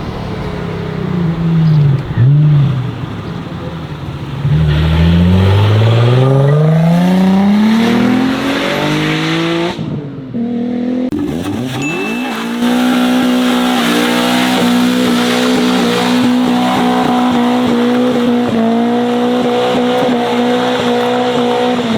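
A high-performance car engine, heard through its loud exhaust, revs up and down and then accelerates with its pitch climbing steadily for about five seconds. After a short break it holds a steady high engine note.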